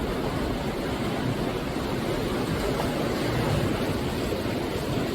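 Sea surf breaking and washing on the shore: a steady, even rush of waves with a low rumble underneath.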